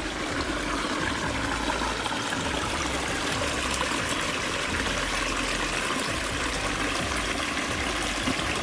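A stream of water pouring and rushing over rocks, a steady continuous flow.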